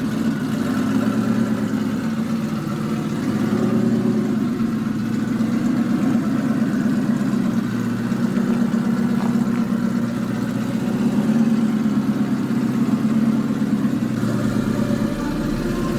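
Twin-turbo Ford F-150's engine idling steadily.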